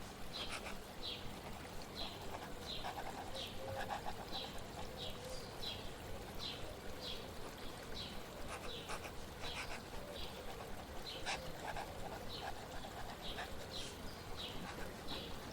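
A bird repeating a short, high, falling chirp about twice a second over steadily flowing water, with a few faint clicks.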